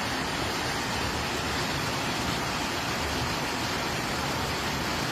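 Floodwater rushing past in a steady, even wash of noise.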